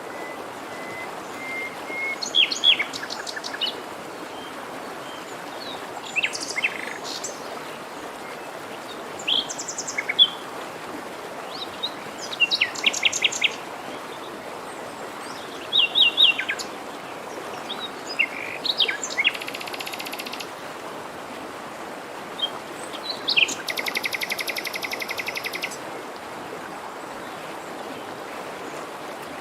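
Songbirds chirping and calling in short scattered phrases over the steady rush of a forest stream, with two longer rapid trills, one about two-thirds of the way in and a longer one from about 24 to 26 seconds in.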